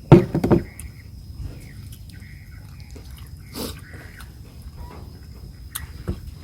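Close-up eating sounds: a loud burst of biting about a fraction of a second in, then soft, scattered chewing and mouth clicks.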